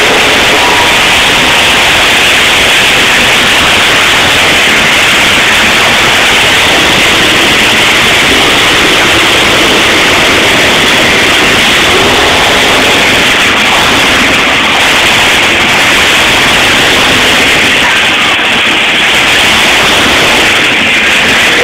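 Monster truck engines running, so loud that the recording is overloaded into a steady, harsh, distorted noise with no let-up.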